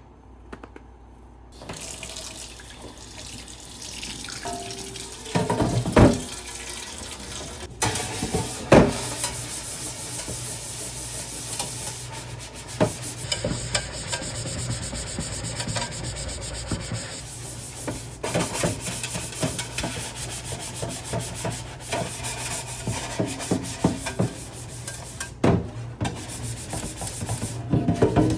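Water running from a tap into a sink, with rubbing and occasional sharp knocks of things being handled in it.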